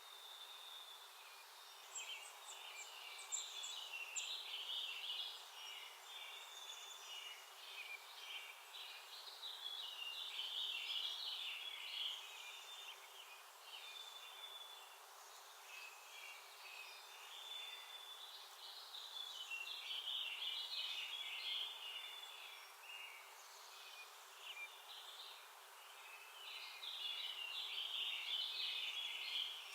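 A songbird singing a jumbled, warbled phrase a few seconds long, repeated about four times with pauses between, over a faint steady outdoor hiss.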